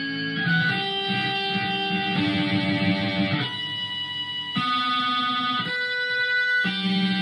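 Electric guitar played through a wah pedal: a series of held notes or chords, each ringing for about a second before the next is struck.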